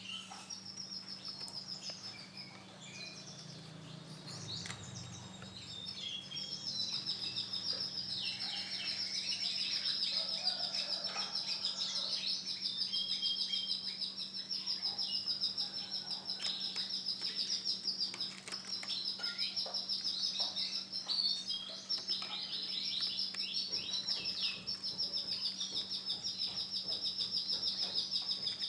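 Male domestic canary singing a long, continuous song of rapid high trills and chirps, which starts in short phrases and becomes almost unbroken after about six seconds. A steady low hum runs underneath.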